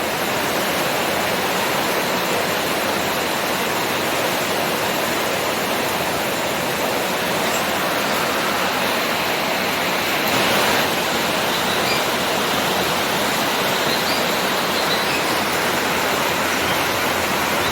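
Heavy downpour with strong wind: a steady, dense rush of rain, swelling slightly about ten seconds in.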